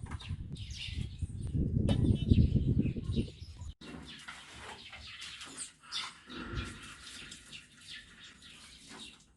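Small birds chirping, with a loud low rumble under them for about the first three seconds. After a brief dropout the chirping carries on over a quieter background.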